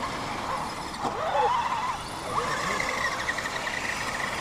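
A short voice-like exclamation that glides up and down in pitch, followed by a steady whine from a small electric RC crawler motor.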